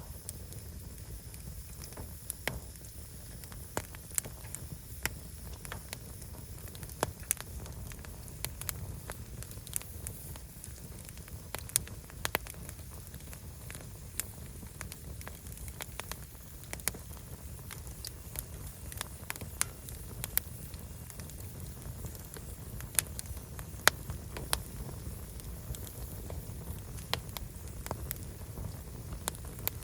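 Burning firewood crackling and popping: sharp, irregular snaps scattered unevenly, some louder than others, over a low steady rumble.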